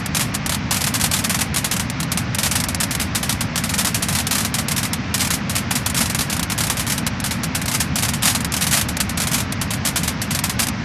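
Wood-burning fire crackling and popping steadily, many sharp crackles a second over a low rumble of the flames.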